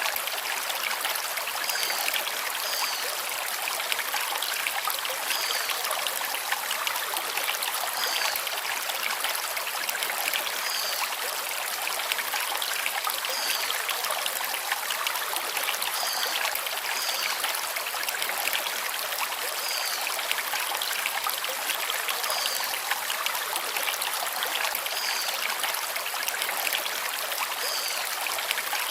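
A forest stream flowing over river stones: steady rushing and trickling water. A bird gives short, high chirps every few seconds.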